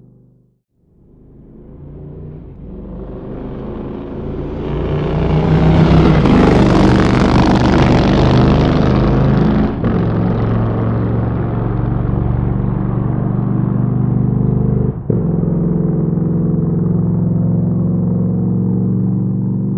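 Motorcycle engine fading in and growing louder over several seconds, then running loud and steady at a held pitch, with two momentary drops in sound partway through.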